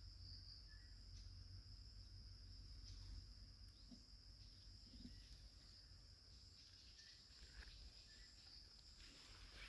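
Faint forest ambience: a steady, high-pitched insect drone, with a few faint short chirps.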